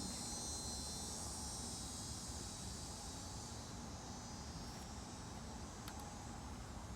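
Insects, likely crickets, trilling in a steady high chorus that fades after about three seconds, with a few faint clicks near the end.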